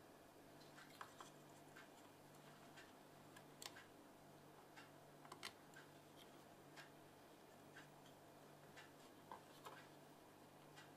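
Near silence: room tone with faint, irregular small clicks over a low steady hum.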